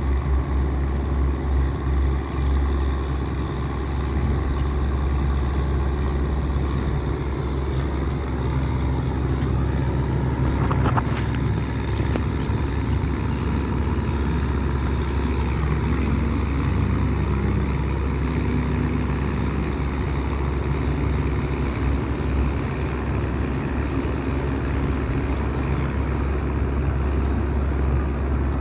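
Small wooden tugboat's engine running steadily under load while towing four heavy pontoons: a low, even drone.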